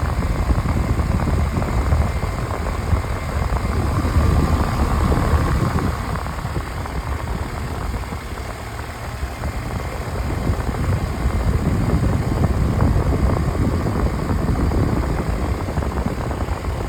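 Outdoor air conditioner condenser unit running, its fan blowing a steady rush of air with a heavy, fluctuating low rumble and a faint hum above it.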